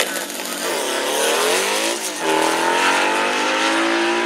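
Turbocharged Volkswagen Beetle drag car's flat-four launching at full throttle, its pitch climbing steadily. The pitch dips briefly about two seconds in, as at a gear change, then climbs again as the car pulls away down the strip.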